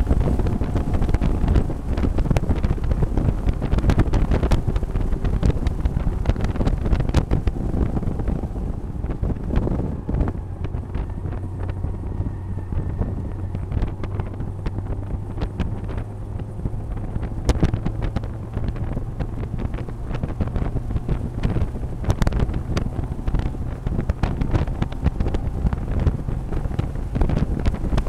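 Mazda MX-5 race car engine running at light throttle, heard from inside the cockpit, with wind buffeting the microphone and frequent small clicks and knocks.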